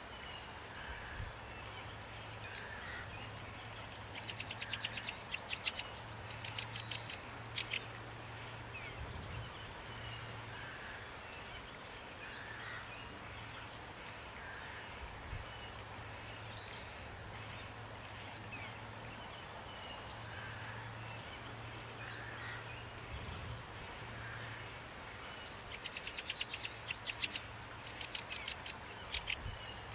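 Steady rain falling while several songbirds chirp and call, with bursts of rapid trilling about five seconds in and again near the end. A faint low hum runs underneath.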